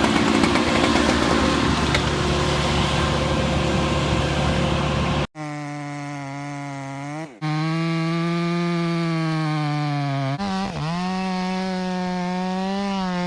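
Two-stroke chainsaw running at high revs. For the first five seconds or so it is heard amid a dense noisy wash, as when cutting. The sound then changes abruptly to a clean, steady high-rev chainsaw tone that dips sharply in pitch twice and recovers each time, as the throttle is eased and opened again.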